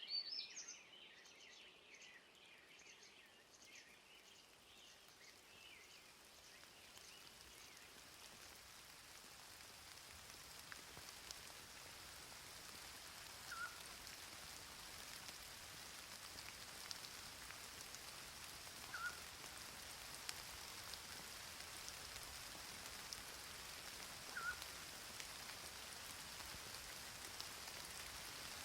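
Faint steady rain falling, growing slowly louder, with scattered small drip ticks. Birds chirp in the first few seconds, and a short chirp comes three times, about five seconds apart, in the middle.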